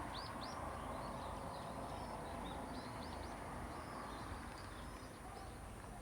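Small birds chirping, many short quick calls scattered throughout, over a steady low hiss.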